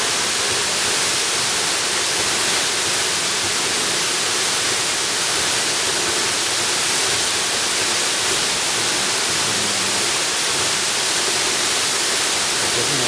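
Waterfall in a jungle: a steady, unbroken rush of falling water.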